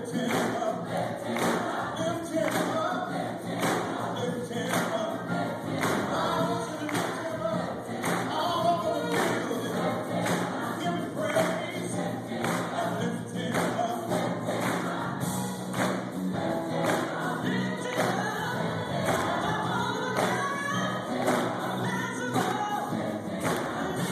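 Gospel choir singing with a steady thumping beat.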